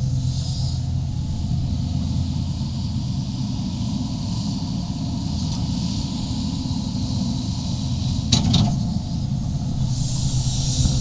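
A Sumitomo SH350 excavator's diesel engine running steadily under digging load, with a high hiss over the drone. About eight seconds in there is one sharp knock.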